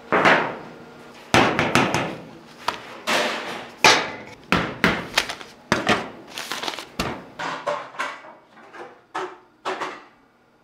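A run of irregular sharp knocks and clatters, some with a short ringing tail. They come quickly at first, then space out and stop shortly before the end.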